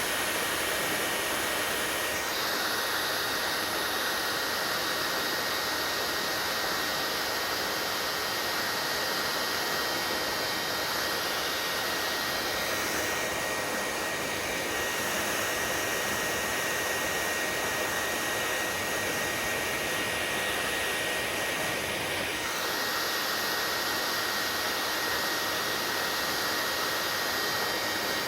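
Hair dryer running steadily: a constant rush of air with a thin, steady whine. The hiss shifts in tone three times, about every ten seconds.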